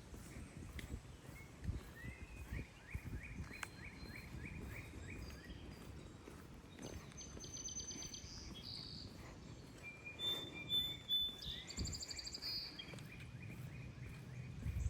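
Songbirds singing and calling: a fast trill, a second trill later on, and short chirping calls higher up. Footsteps on pavement sound underneath throughout.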